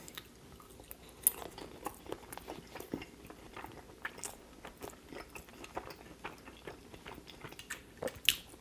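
Close-miked chewing of a mouthful of roasted potato and sautéed mushroom: irregular soft wet clicks and light crunches, with a sharper click near the end.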